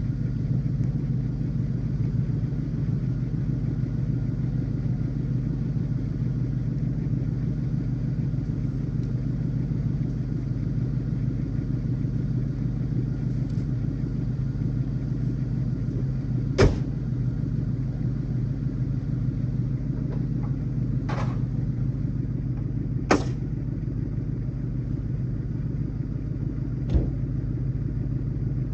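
Ford Mustang's 4.6-litre V8 running steadily as the car is moved, an even rumble with a few sharp clicks about two-thirds of the way in and near the end. The owner believes the engine is running with no oil in it.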